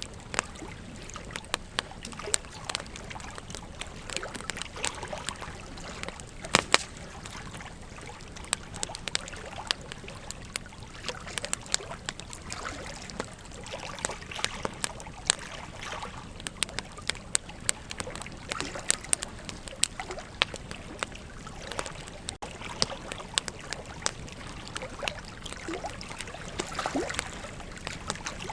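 Wood campfire crackling, with frequent irregular sharp pops and snaps, the loudest about six and a half seconds in, over a steady rush of flowing river water.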